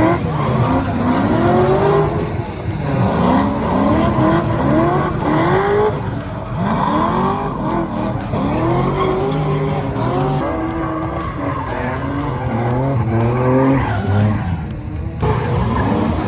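A drift car's engine revving up and down over and over, with the throttle blipped about once a second, while its tyres screech as it slides.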